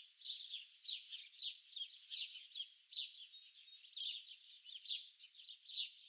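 Songbirds chirping in a dense, steady run of short, high, downward-sweeping notes, about two a second.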